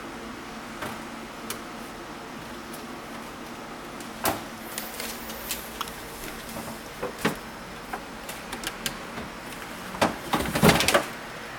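Scattered clicks and knocks of things in a refrigerator being bumped as a pet moves about in it, over a steady low hum, with a louder cluster of thumps and rattling about ten seconds in.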